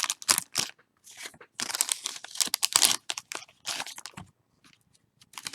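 Crinkly plastic packaging rustling and crackling in irregular bursts, densest between about one and a half and three seconds in, with small clicks as trading cards and their wrappers are handled.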